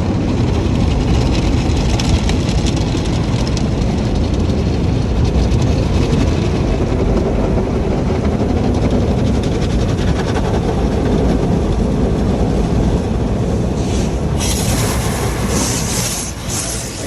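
Automatic car wash running over a car, heard from inside the cabin: a steady loud rumble and rush of water and machinery. Near the end a brighter hiss comes in.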